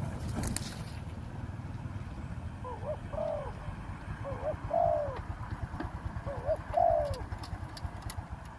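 Spotted dove cooing: three short coo phrases a second or two apart, starting a few seconds in, over a steady low rumble.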